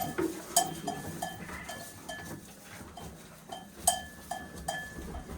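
Small metal bell on a farm animal clinking irregularly, about a dozen short ringing clinks at the same pitch as the animal moves.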